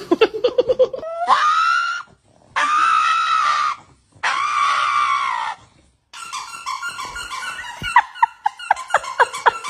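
A dog screaming in a tantrum. It gives a quick run of rising yelps, then three long, high, drawn-out screams, then a fast string of short yips and yelps.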